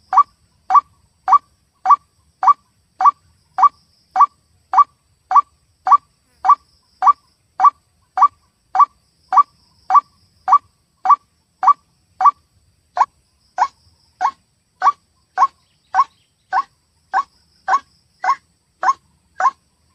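White-breasted waterhen (ruak-ruak) call: one short note repeated at an even pace, a little under two a second.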